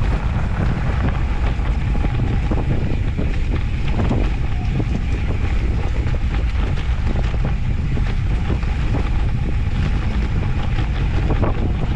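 Wind buffeting the microphone of a moving off-road handcycle on a dirt mountain-bike trail, with a steady low rumble and frequent short clicks and rattles from the bike and tyres over the ground.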